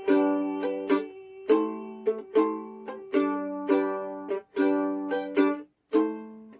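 Mandolin strumming chords, one stroke roughly every half second, with a couple of brief stops near the end.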